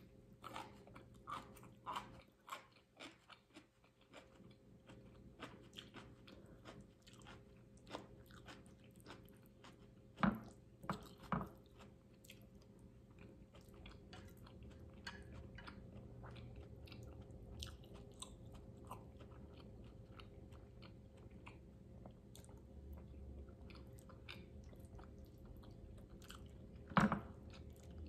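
Close-up chewing and soft wet mouth clicks of a person eating Carbo fire noodles. A few sharper, louder clicks come about ten seconds in, a second later, and again near the end.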